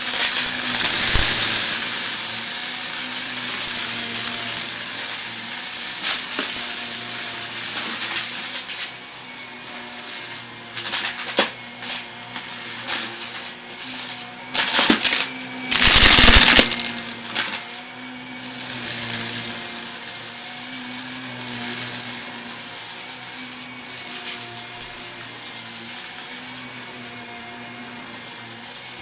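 Vacuum cleaner running and sucking up dry, crunchy debris: a steady motor hum under the rush of airflow, with crackling and rattling as bits are pulled up the nozzle, and a loud surge of crunching about 16 seconds in.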